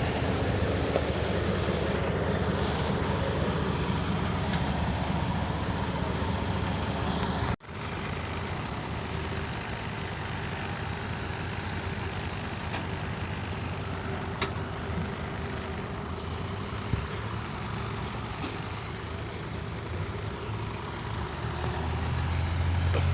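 Dump truck's diesel engine running steadily, heavier for the first several seconds. It breaks off abruptly about seven seconds in and resumes quieter, then grows louder near the end.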